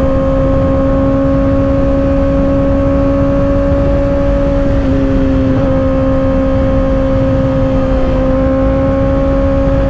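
Kawasaki ZX-6R's 636 cc inline-four with an M4 aftermarket exhaust running at a steady high engine speed while cruising, with a brief small shift in pitch about halfway through. Heavy wind rush sits under the engine note.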